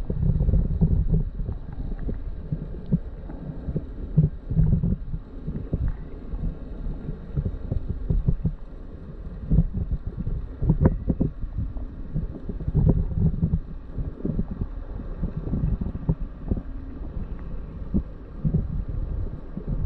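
Muffled underwater audio from a GoPro in its waterproof housing: an irregular low rumbling and buffeting of water moving against the housing, with a few faint clicks.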